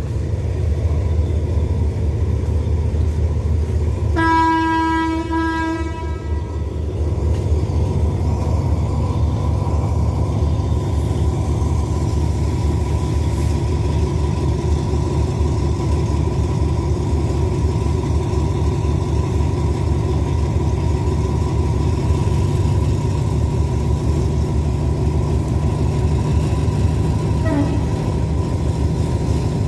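Diesel engine of a standing train idling steadily with a low pulsing rumble. A train horn blows once for about two seconds, about four seconds in.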